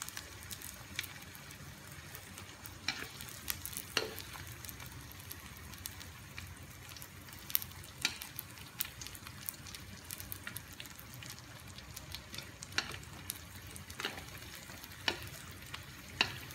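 Rice paper sandwiched with fish paste sizzling in hot oil in a wok: a steady hiss of frying with scattered sharp crackles and pops.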